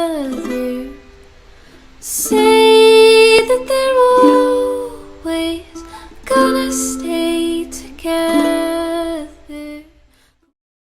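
A voice singing a slow melody in phrases with short pauses, over plucked string accompaniment; the music drops out briefly about ten seconds in.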